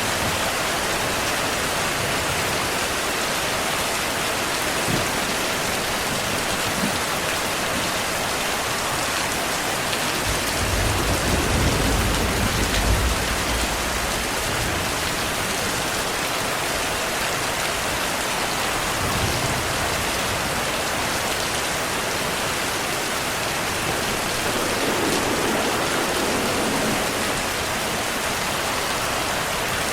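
Steady heavy rain, with a low rumble of thunder swelling about ten seconds in and fading after a few seconds, and fainter low rumbles later on.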